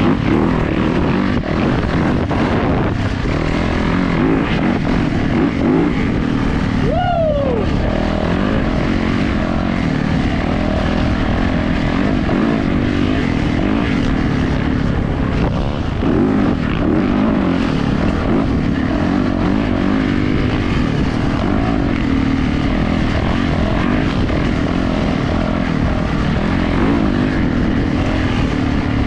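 Yamaha YZ450F dirt bike's four-stroke single-cylinder engine running hard on a trail ride, its pitch rising and falling with the throttle.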